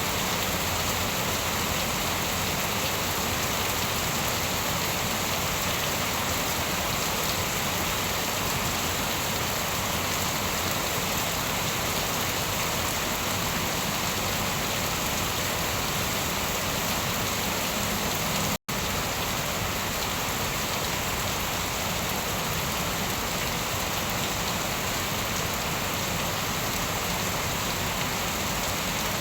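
Steady rain falling, an even, dense patter of drops with no thunder. The sound cuts out for an instant about two-thirds of the way through, then carries on unchanged.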